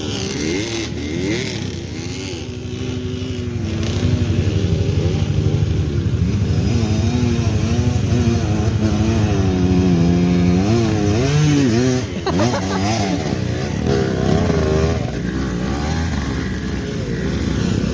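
Motorcycle engine working up a steep rocky climb, its revs rising and falling with the throttle, with a sudden drop about twelve seconds in before it picks up again.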